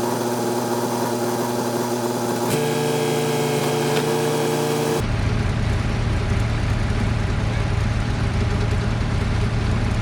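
Diesel engine of a piece of construction machinery running steadily. Its note shifts slightly about two and a half seconds in, and halfway through the sound changes abruptly to a deeper, heavier hum.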